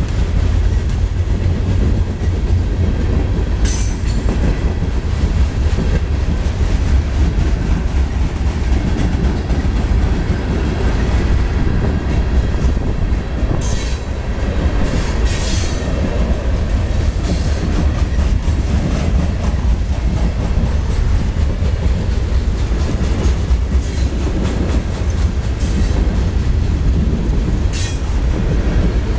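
CSX coal train's hopper cars rolling past at close range: a steady heavy rumble of wheels on rail, with brief high wheel squeals a few times, about four seconds in, around the middle, and near the end.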